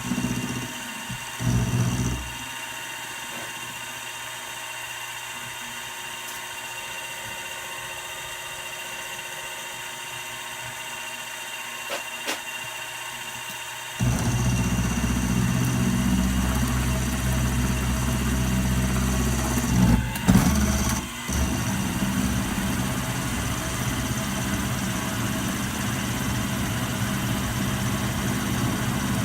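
Milling machine running with a steady motor whine. About halfway through, a louder, deeper rumble sets in suddenly and keeps going, with a few short knocks along the way.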